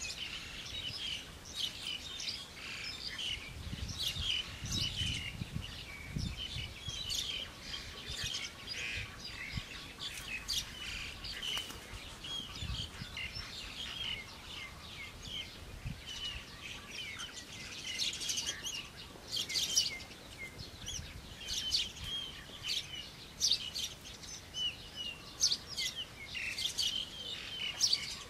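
Birds chirping, with many short, quick calls and trills overlapping throughout and a few sharp clicks. A faint low rumble runs under them about four to six seconds in.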